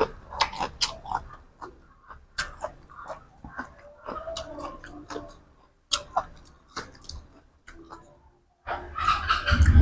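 Close-up chewing of food, with many sharp crunching clicks. Near the end comes a loud low bump.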